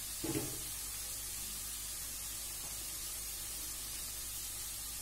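Sliced vegetables and spice powder frying in a nonstick kadai on a gas burner: a steady, even sizzling hiss, with a brief low sound near the start.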